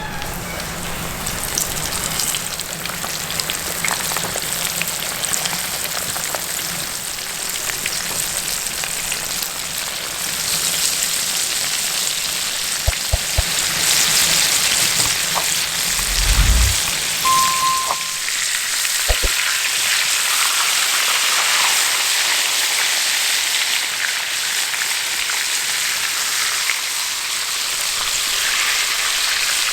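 Food sizzling in hot fat, a steady hiss with scattered small crackles that grows louder partway through, broken by a low thump about halfway through.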